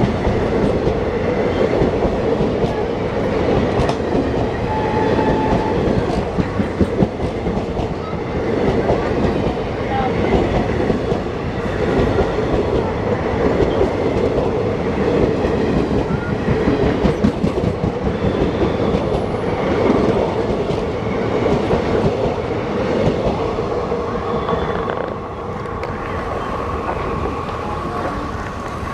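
Electric-hauled Indian express train rushing past at speed, its coach wheels clattering steadily over the rail joints. The sound cuts off suddenly at the end.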